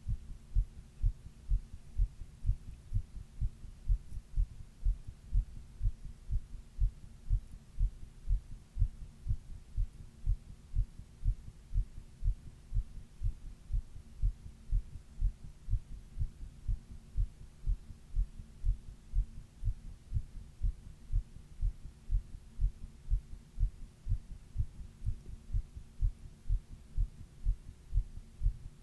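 A human heartbeat heard close up, a steady lub-dub rhythm of low thumps in regular pairs, over a faint steady hum. It is recorded while she is running a 102-degree fever.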